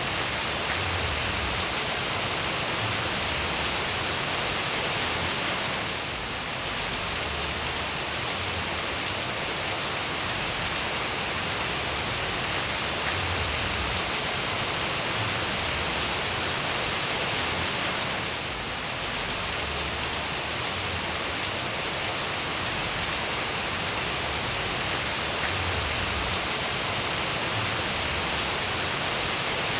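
Steady, even hiss of rain falling, with no distinct drops or thunder standing out. The level sags briefly twice, about 6 and 18 seconds in.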